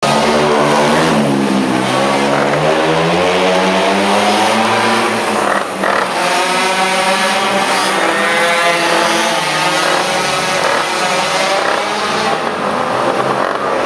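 Small two-stroke pocket bike engines running at high revs, their pitch repeatedly rising and falling as they accelerate and back off, with more than one engine heard at times.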